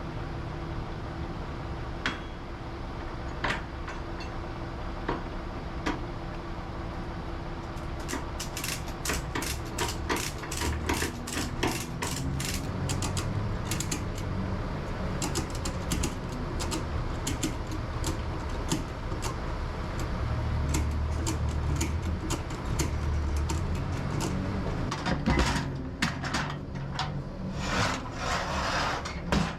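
Ratchet strap tensioners being worked, giving runs of quick metallic clicks, thickest in the middle, with a few rougher rasping strokes near the end, over a steady low rumble.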